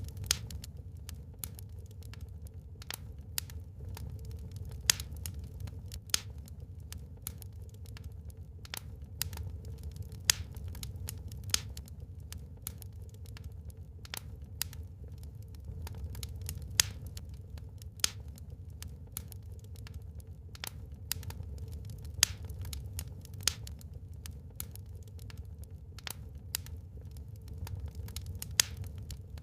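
Wood fire burning in a fireplace, crackling with irregular sharp pops, several a second at busy moments, over a steady low rumble.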